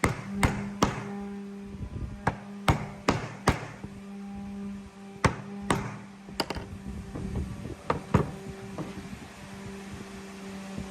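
About a dozen sharp taps and knocks of a tool striking wood, coming in irregular clusters: three at the start, four in quick succession around the third second, a few more near the middle, and a pair about eight seconds in. Background music with a steady low drone runs underneath.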